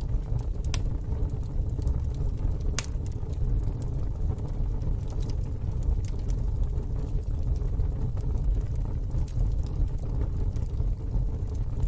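Wood fire burning in a fire pit: a steady low rumble with scattered sharp crackles and pops, the strongest about three seconds in.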